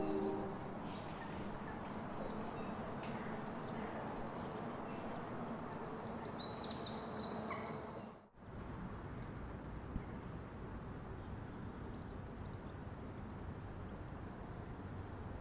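Small songbirds chirping and twittering over steady outdoor background noise. About eight seconds in, the sound drops out for a moment and comes back as the steady background noise alone, with no birds.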